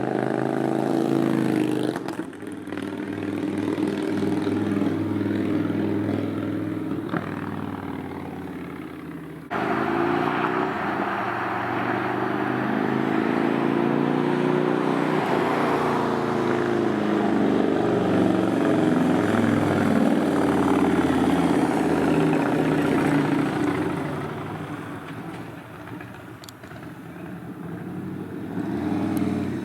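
2022 Indian Chief Dark Horse's V-twin running through a Freedom Performance Combat 2-into-1 exhaust with the performance baffle, recorded while riding. The exhaust pitch rises and falls with speed over wind noise, jumps suddenly louder about ten seconds in, then eases off and builds again near the end.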